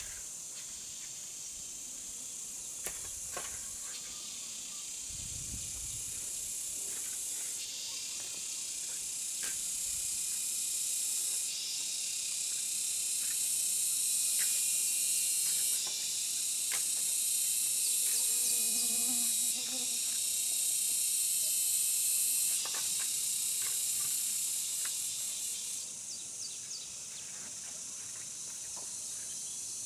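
High-pitched insect chorus buzzing steadily, its loudness stepping up and down abruptly every few seconds. A few faint clicks and knocks and a brief low call are heard over it.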